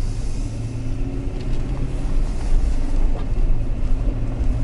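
Steady low engine and road hum heard from inside a moving vehicle's cabin.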